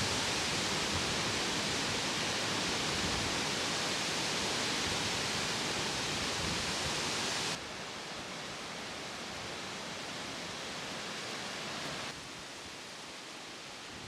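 A steady, even hiss of outdoor ambience with no distinct events, dropping suddenly in level about halfway through and again near the end.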